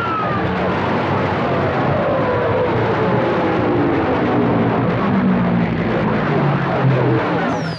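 CB radio receiver putting out loud static, with long whistling tones that slide slowly downward in pitch across the channel and steady low hums underneath. A new high whistle starts falling near the end.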